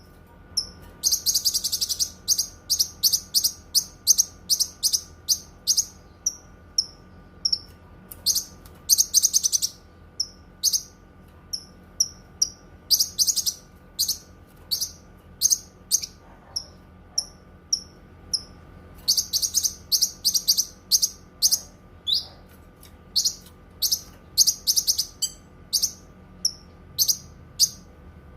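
Cucak kinoi songbird singing: sharp, high chirps repeated throughout, breaking now and then into dense, fast chattering runs, about a second in, near nine seconds, and again around twenty seconds, over a faint steady background hum.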